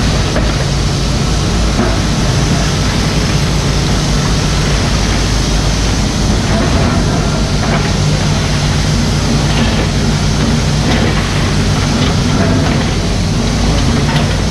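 Mini excavator's diesel engine running steadily under work, with a few faint knocks scattered through.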